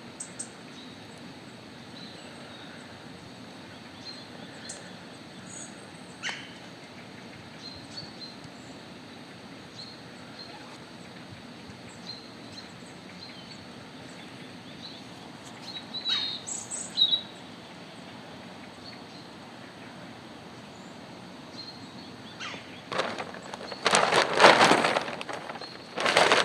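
Small birds chirping faintly now and then over a steady outdoor hiss in a snowy forest. Near the end come several loud, noisy crunching sounds.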